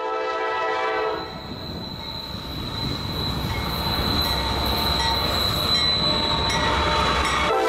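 Diesel freight locomotive approaching. Its horn sounds a chord that stops about a second in, then the rumble of the locomotives grows with a steady high squeal from the wheels, and the horn sounds again near the end.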